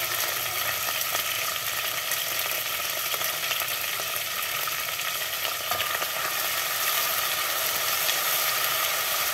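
Mustard seeds frying in hot oil in a pot: a steady sizzle flecked with fine crackling.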